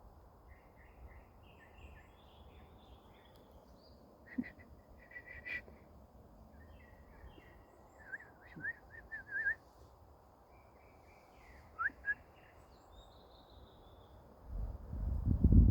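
Songbirds chirping and singing: scattered short calls and trills, with a quick run of sharp repeated notes about eight seconds in. Near the end a loud low rumble covers them.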